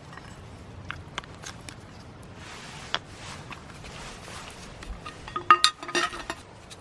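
Eating utensils clinking against a dish while eating freshly cooked ramen: a few light taps, then a quick cluster of ringing clinks about five and a half seconds in.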